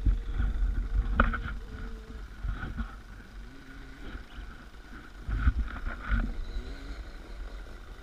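Suzuki DR350's single-cylinder four-stroke dirt-bike engine running at low revs under the onboard camera, with a low rumble and several sharp knocks, about a second in and again around five to six seconds in.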